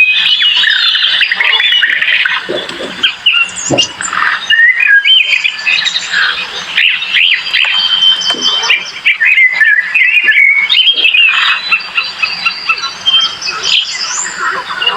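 Dense chorus of many birds calling at once, with overlapping chirps and quick rising and falling notes that never let up.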